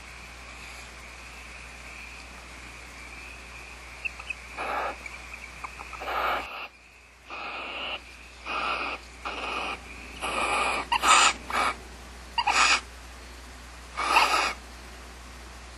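Barn owls giving a run of about ten harsh, hissing calls, each under a second long, starting about four seconds in.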